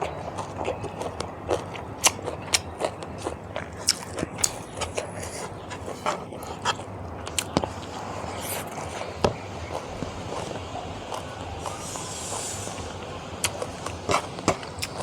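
Close-miked chewing and biting of food, a run of many sharp, irregular clicks, with a brief hiss about twelve seconds in.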